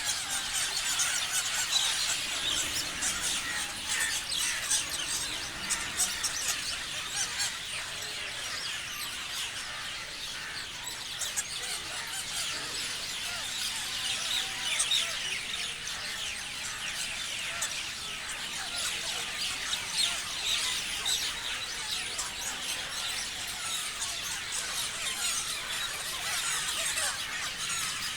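Many parrots calling at once: a dense, unbroken chatter of overlapping shrill squeals and chirps.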